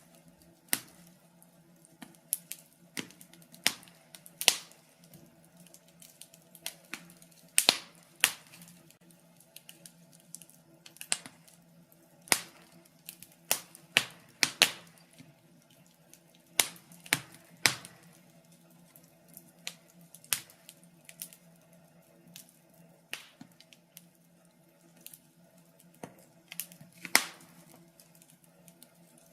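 Wood fire crackling in a fireplace: irregular sharp pops and snaps from the burning logs, some much louder than others, over a faint steady low hum.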